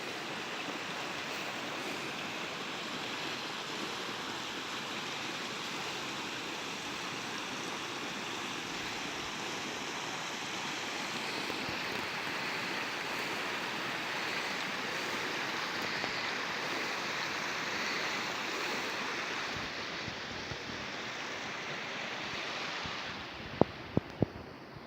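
Steady rush of flowing water, an even hiss with no rhythm, with a few sharp clicks about a second before the end.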